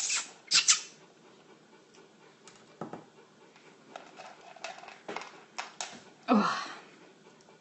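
Cat eating from his food bowl: a few scattered soft clicks and smacks, with sharper clicks in the first second. A woman says "Oh" near the end.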